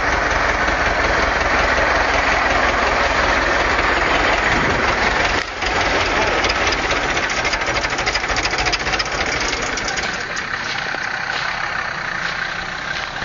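Vehicle engine running hard under load, with a fast knocking clatter from about six to ten seconds in, then easing off slightly near the end.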